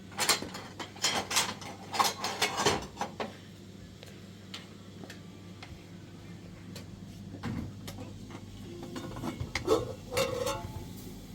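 Sharp clinks and knocks of hard objects being handled, several in quick succession in the first three seconds, then a few more towards the end.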